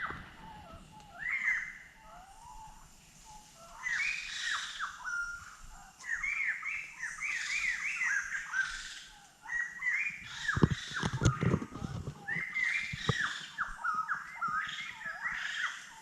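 Bird calling in bouts of quick, repeated downward-sweeping chirps, with short pauses between the bouts. A few low knocks come a little past halfway.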